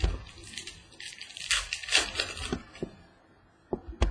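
Trading card packs and cards being handled: wrapper crinkling and cards rustling for about a second and a half in the middle, with a few soft knocks on the table.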